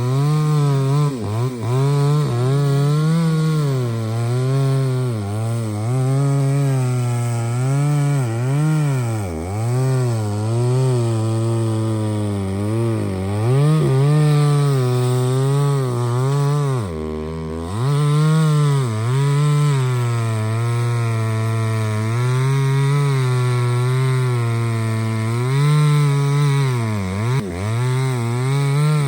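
Two-stroke chainsaw cutting a large trunk of hard Tram Bong Vang wood, its engine note rising and sagging constantly as the chain bites under load. About halfway through it bogs down sharply, nearly to idle, then picks back up.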